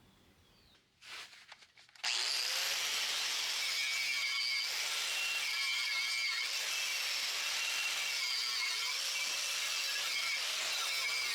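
Angle grinder with a wire wheel starts about two seconds in and runs steadily, scrubbing leftover rubber bead sealer off a sandblasted steel VW wheel rim. A brief clatter comes just before it starts.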